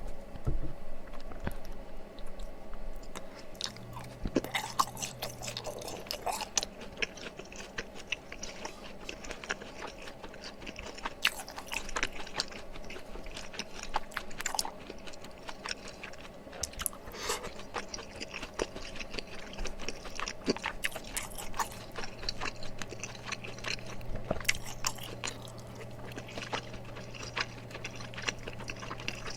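Close-miked chewing, biting and wet mouth sounds of someone eating spicy tteokbokki, with irregular clicks and smacks.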